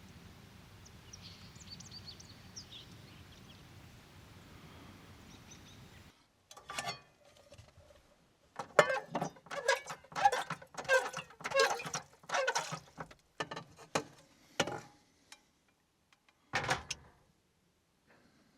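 About six seconds of faint hiss with a few thin, high chirps, then after a sudden cut a run of short knocks and thumps, a dozen or more between about eight and fifteen seconds in, with one more near the end: handling noise, with things being knocked and moved about in a small room.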